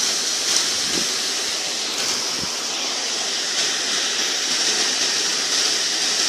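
Rain falling in the wind: a steady, even hiss.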